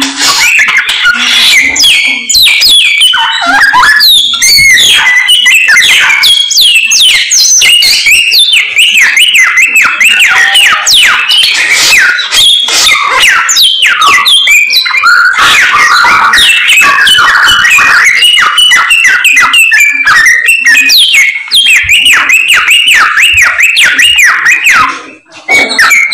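Samyong songbird singing non-stop: loud, rapid chirps and whistled trills that sweep up and down in pitch, with a short break about twenty-five seconds in.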